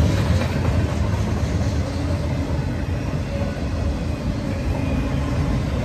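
Freight train cars passing at speed: covered hoppers and an autorack car give a steady, low rolling noise of steel wheels on rail.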